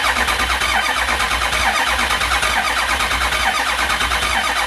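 Ford 6.0L Power Stroke V8 diesel turning over on the starter with an even, rhythmic chug. The engine is being cranked for a fuel-bowl bubble test, which checks whether combustion gas from the blown cylinder is leaking past an injector seal into the fuel.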